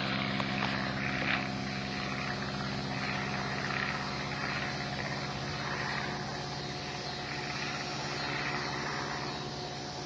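Stearman PT-17 biplane's radial engine droning steadily in flight, slowly fading as it flies away.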